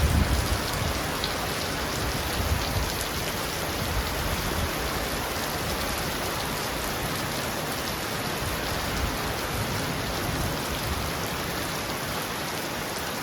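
Heavy rain falling steadily on a roof, an even hiss of many drops, with a short low rumble right at the start.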